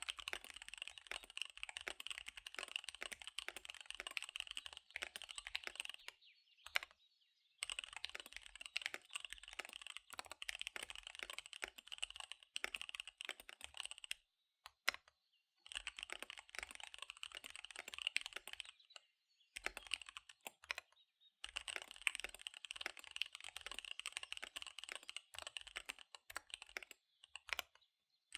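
Fast typing on a KBD75 V3 mechanical keyboard with SP-Star Dark Magic Girl tactile switches and DSA keycaps: a rapid clatter of keystrokes in long runs, broken by brief pauses four times.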